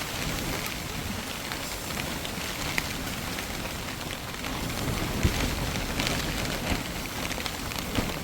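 Steady rain falling, an even hiss with scattered sharper drop impacts and a low rumble underneath.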